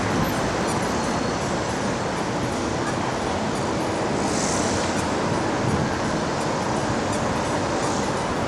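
Shanghai Maglev train pulling into the station with a steady rushing noise and no wheel-on-rail clatter, with a brief hiss about halfway through.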